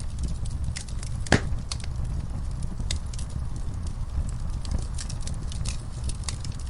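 Fireplace fire crackling: a steady low rumble with scattered small pops and crackles, and one louder pop about a second and a half in.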